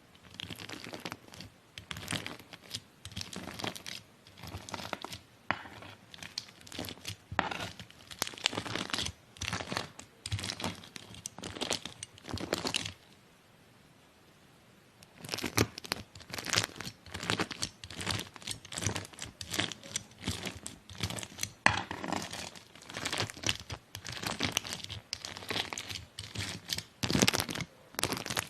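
Crunchy slime being cut with a knife: dense, rapid crackling and crunching. A pause of about two seconds comes in the middle, then the crackling resumes.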